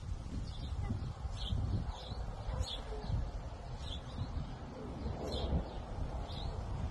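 A bird chirping in short high notes about once a second, over a steady low rumble.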